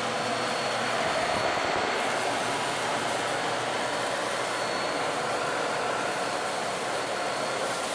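Bissell 9595A CleanView OnePass upright vacuum running steadily, picking up pepper, dust and rice. Its brush roll is on a low setting and scrubs against the floor, which adds to the noise.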